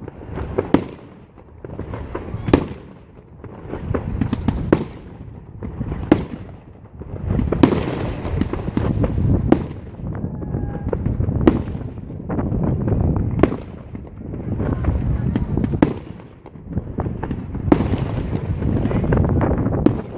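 Aerial fireworks shells bursting, one sharp bang about every two seconds, each followed by a rolling echo, with high crackling between some bursts.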